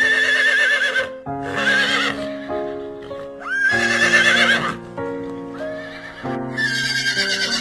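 Horse whinnying several times in a row, each whinny about a second long with a quavering pitch. Gentle children's background music with steady keyboard notes runs underneath.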